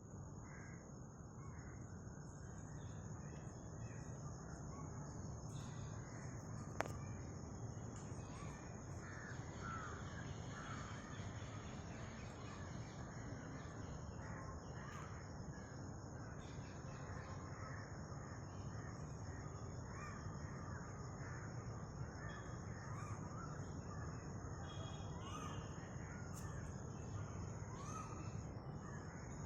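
A cuckoo calling over and over in short rising notes, against a steady high thin whine and a low rumble.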